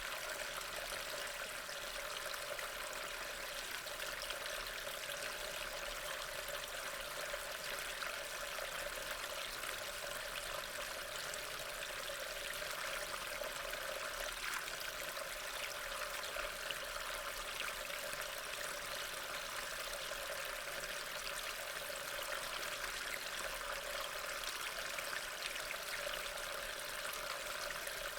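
Steady rain: an even hiss of falling water with a fine patter of drops.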